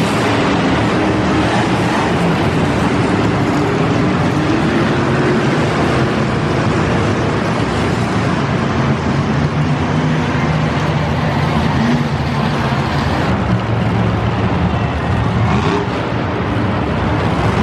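Big-block monster truck engines running loud, their pitch wavering up and down with the throttle over a dense wash of noise.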